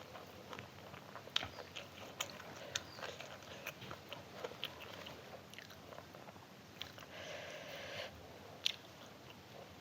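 Close-miked chewing and biting, with irregular wet mouth clicks. There is a brief hissing sound about seven seconds in.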